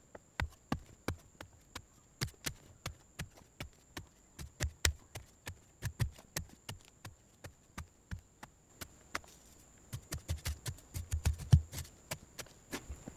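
Irregular run of sharp knocks and clicks, a few a second, with a cluster of heavier thuds near the end.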